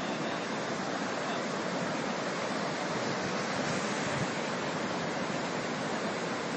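Steady rush of fast-flowing floodwater, an even roar with no breaks.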